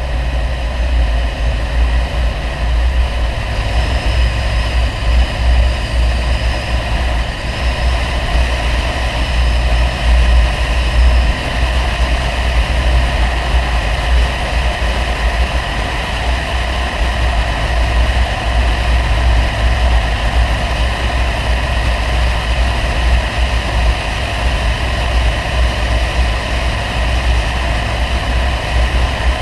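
Audi 100 2.3 quattro's five-cylinder engine running steadily through its CAC exhaust, a deep low drone that holds an even level.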